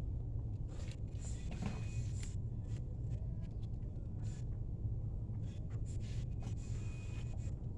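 Steady low hum of a store's background noise, with scattered faint clicks and knocks.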